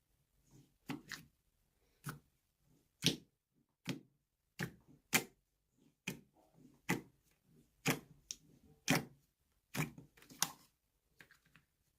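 Slime being pressed and squished by hand, making sharp clicking pops as air pockets burst, roughly once a second at an uneven pace.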